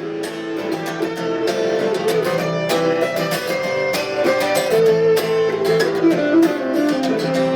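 A band playing instrumental music led by guitar, with no singing, over a steady strummed rhythm.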